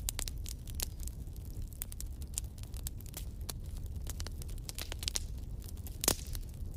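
Wood fire crackling over a steady low rumble, with frequent small pops and one loud pop about six seconds in.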